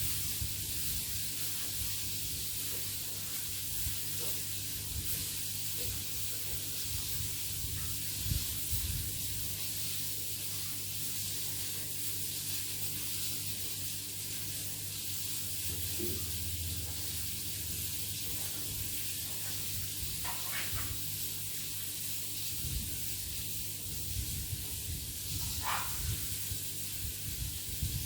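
Food frying in a pan, a steady sizzle, with a few faint knocks.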